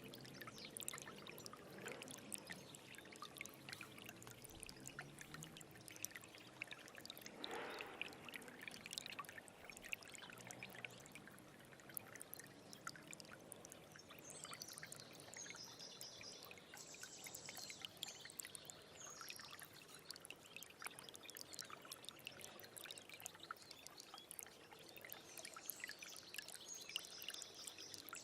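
Small stream trickling and babbling steadily, a fine patter of little splashes, with a slightly louder splash about a quarter of the way in.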